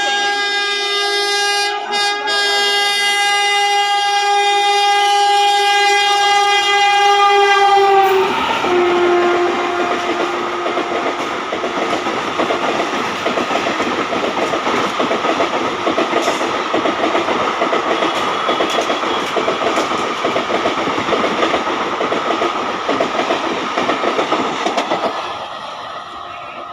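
Electric locomotive horn of an Indian Railways train passing at speed, held for about eight seconds with a short break near two seconds, its pitch dropping as the locomotive goes by. The coaches follow, with steady wheel clatter over the rail joints for about seventeen seconds, fading near the end.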